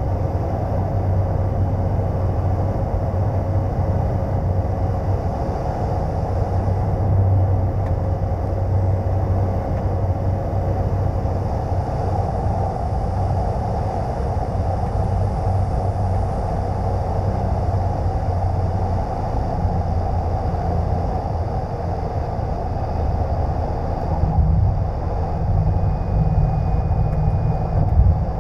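Cessna 208B Grand Caravan's single turboprop engine and propeller droning steadily, heard inside the cockpit.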